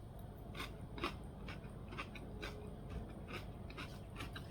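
Faint, irregular crunches and clicks of someone eating a raw vegetable salad.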